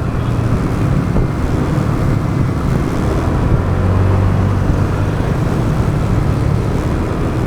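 Motorbike engine running steadily while riding, with a low hum and rushing road noise. It swells a little about halfway through.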